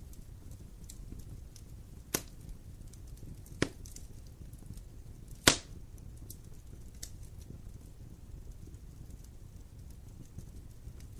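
Wood fire burning with a low steady rumble and faint crackle, and three sharp pops in the first half, the last the loudest.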